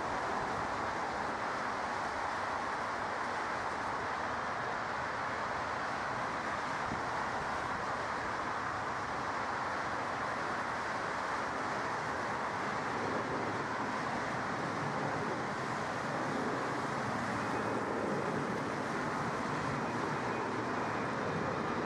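Steady rush of distant jet aircraft engine noise, growing a little louder near the end.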